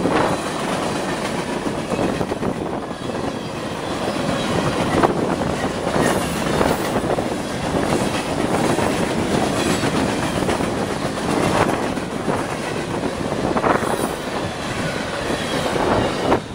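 CSX freight train's cars rushing past at speed: a steady loud rumble and rush of steel wheels on rail, with scattered louder clanks and clatter from the wheels and couplers.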